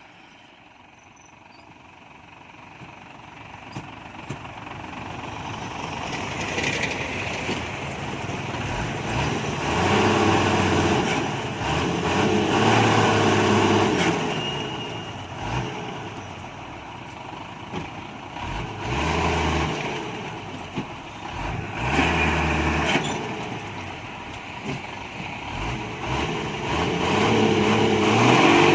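Hyundai 5-ton dump truck's engine revving in repeated surges as the stuck truck strains to pull free. It starts faint and grows louder over the first several seconds.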